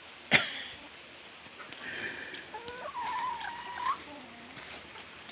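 A sharp knock about a third of a second in, then chickens calling for a couple of seconds with one drawn-out call near the end.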